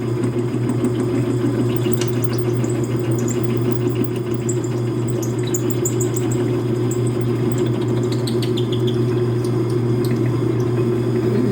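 Metal lathe running with a carbide drill bit cutting into a shell mill held in the chuck: a steady machine hum with scattered light high ticks from the cut.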